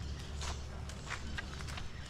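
Footsteps of people walking along a trail, a few irregular steps over a steady low rumble.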